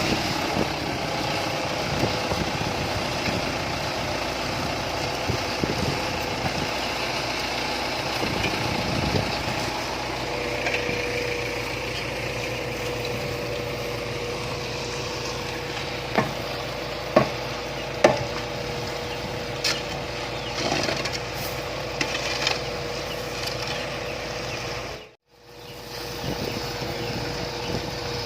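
Road construction machinery running steadily with an engine hum, with a few sharp knocks a little past the middle. The sound cuts out for a moment near the end, then the machine is heard again.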